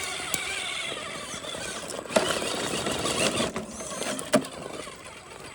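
Axial SCX10 RC crawler's electric motor and gearbox whining, the pitch rising and falling with the throttle as it climbs. Two sharp knocks, about two seconds in and near four seconds, as the truck hits the rock.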